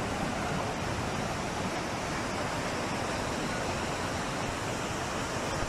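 Steady, even rush of storm water, with no change or break.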